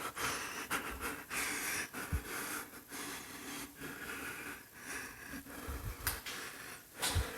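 A person breathing heavily and unevenly close to the microphone, with a few soft low thumps.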